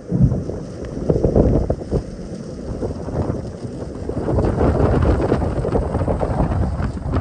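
Wind buffeting the microphone in uneven gusts, with surges about a second in and again in the second half.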